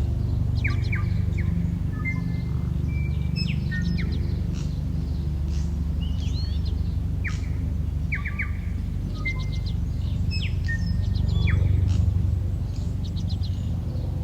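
Several wild birds chirping and calling, with short trills and whistled notes throughout, over a steady low rumble.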